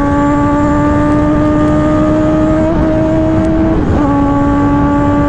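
Kawasaki ZX-10R's inline-four engine running at high revs with a steady high note that climbs slightly, breaking off and dropping in pitch about four seconds in before picking up again.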